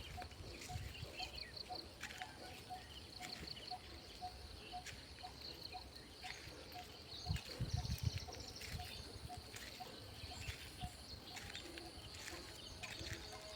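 Faint outdoor ambience with birds calling: scattered high chirps over a steady run of short repeated notes at one pitch, about two to three a second. A few low thumps around the middle.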